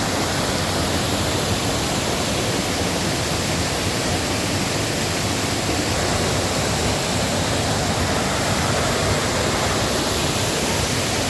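Waterfall crashing steadily, a dense, even rush of falling water.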